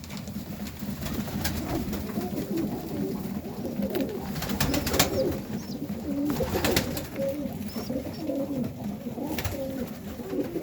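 Domestic highflyer pigeons cooing, many low coos overlapping, with a few sharp taps scattered among them.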